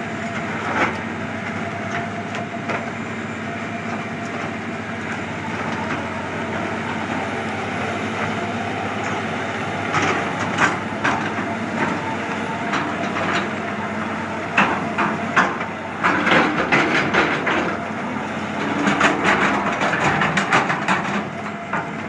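A heavy forestry machine's engine runs steadily while wood cracks and splinters under it. The sharp snaps begin about halfway through and come thick and fast near the end.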